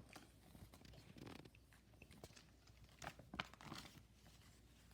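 Faint rustling and a few light clicks of coloured craft pieces being handled.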